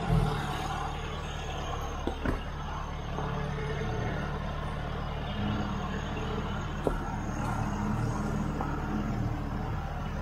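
A four-wheel-drive's engine running steadily at low revs close by. A sharp knock comes right at the start, two more about two seconds in, and another near seven seconds in.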